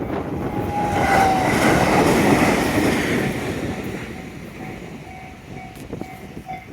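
A train passes over a level crossing, its rumble loudest for the first three seconds and then fading away. As it dies down, the crossing's warning bell is heard ringing in quick, even repeats.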